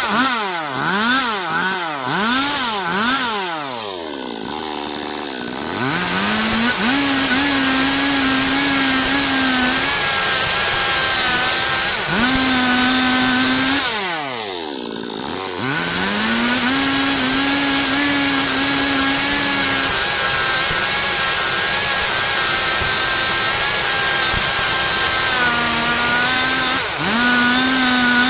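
Stihl MS 382 two-stroke chainsaw cutting a log into lumber, running at high revs. Its pitch is blipped up and down several times at the start, sinks and climbs back to full speed twice, about four and fourteen seconds in, and dips briefly again near the end.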